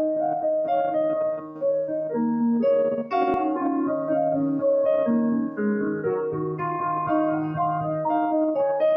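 Piano music: sustained chords under a slow melody, with a brighter accented chord about three seconds in.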